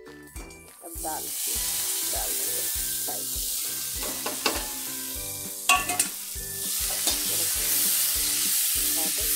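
Boiled chana dal frying in hot oil with cumin, chilli and bay leaf in a kadhai: loud sizzling that sets in about a second in and holds steady, with a steel perforated spatula clinking and scraping on the pan a few times as the dal is stirred.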